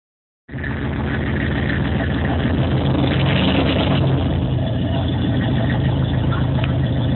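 Kenne Bell–supercharged Ford car engine running steadily, a low even hum with no big revs, cutting in abruptly about half a second in.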